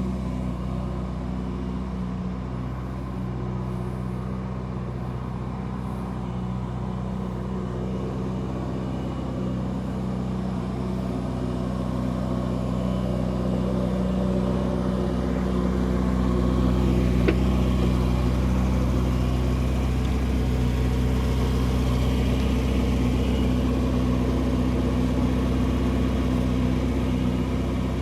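Ferrari 488 GTB's twin-turbocharged V8 engine running at a steady, even note, growing somewhat louder about halfway through, with a brief click in the second half.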